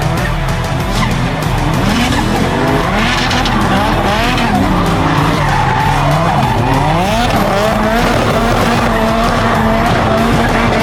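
Toyota 1UZ V8 in a drifting BMW E46, its revs climbing and falling again and again as the rear tyres skid and squeal.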